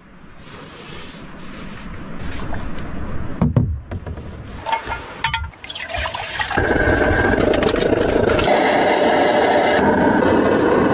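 Steady rush of running water, building over the first few seconds and loudest from about six seconds in.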